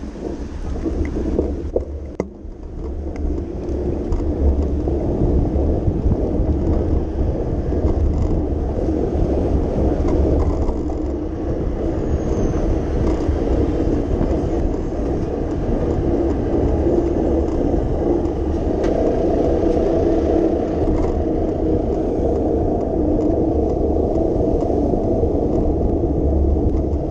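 Steady low rumble of city street and traffic noise with wind buffeting the microphone, heard from a moving bicycle.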